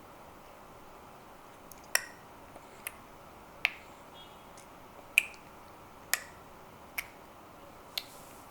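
A series of seven sharp clicks, irregularly spaced about a second apart, some with a brief ringing tail.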